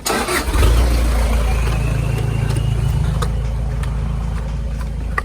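Off-road vehicle's engine running under load, a deep steady rumble that comes in suddenly and carries on, with a few sharp knocks over it.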